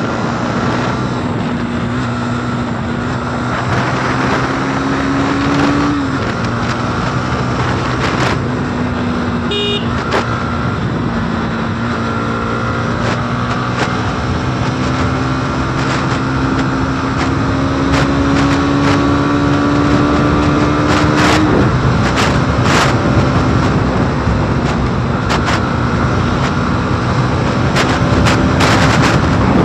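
Motorcycle engine pulling hard at speed, its pitch climbing slowly and dropping sharply at upshifts about six seconds in and again about 21 seconds in, over steady wind rush.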